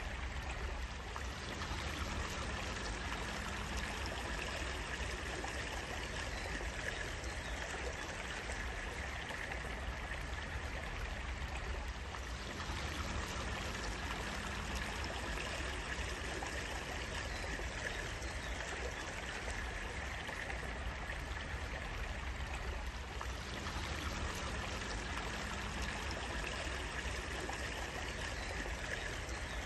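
Water running and trickling steadily in a small stream.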